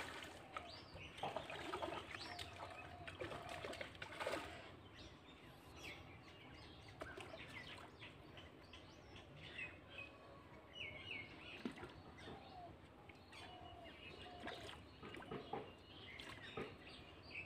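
Several birds chirping and calling in short whistled notes and twitters.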